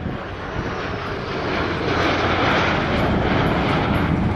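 Fixed-wing airplane engine noise, a low rumble with a rushing roar that swells about two seconds in as the plane passes.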